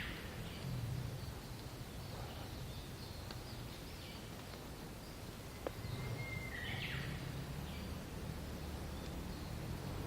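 A bird singing twice, each phrase a long held whistle breaking into a quick higher flourish, once at the very start and again about six seconds in. Under it runs a steady low rumble of wind on the microphone.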